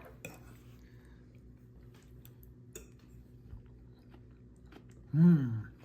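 A person chewing a mouthful of food, with faint small clicks of the mouth, then one short voiced hum near the end.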